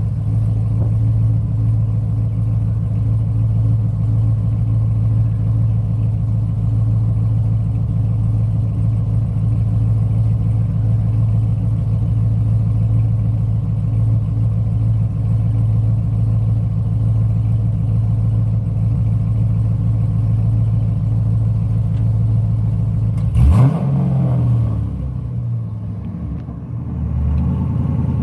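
A Chevrolet Corvette C6's swapped LS3 6.2-litre V8 idling steadily with a deep, even note. About 23 seconds in the engine is revved sharply, its pitch shooting up and falling back, and the engine sound then rises and falls unevenly.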